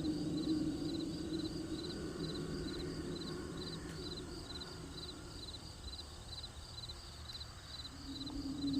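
Crickets chirping steadily, each chirp a short run of pulses, about two chirps a second. Under it a low steady hum fades away in the middle and comes back near the end.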